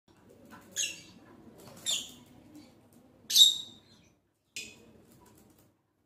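A small bird giving four short, high-pitched chirps about a second apart, the third the loudest.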